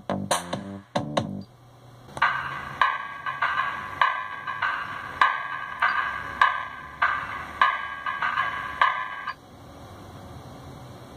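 Music played back by a Pioneer AVH-P6380BT car head unit: a few percussive notes, a short drop as the source is switched, then an electronic beat with a stroke about every 0.6 s that falls away near the end to a quieter backing.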